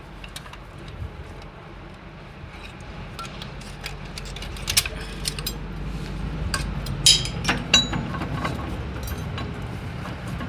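Irregular metallic clinks and knocks of tools and parts being handled during tractor repair work, more frequent and louder from about four seconds in, over a low steady hum.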